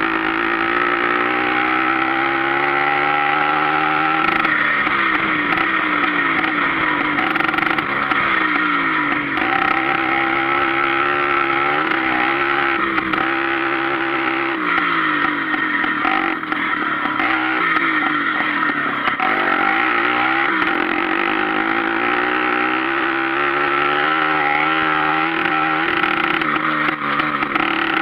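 Sachs-engined Hercules two-stroke with a straight pipe, ridden under way, its loud exhaust note climbing in pitch and then dropping back several times as the revs rise and fall.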